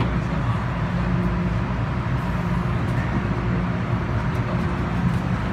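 MTR M-Train electric multiple unit running, heard from inside the passenger car by the doors: a steady rumble of wheels and traction equipment with a constant low hum.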